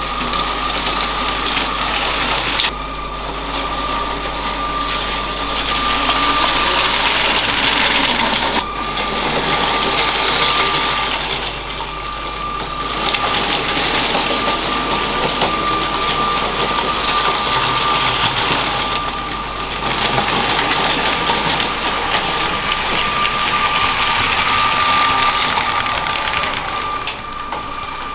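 Motorised LEGO freight train running on plastic track: a steady high motor whine under the rattle of its wheels, which swells and fades several times as the train comes close and moves away.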